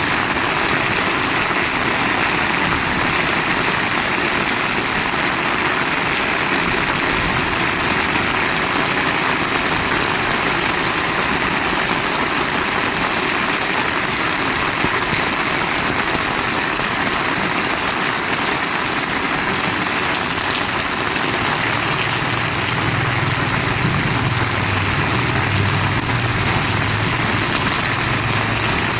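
Heavy rain falling steadily, an even hiss. A low engine-like drone joins in about three-quarters of the way through.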